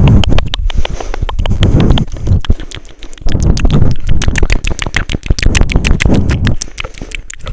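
Rapid, irregular typing clicks, several taps a second, over patches of low rumble.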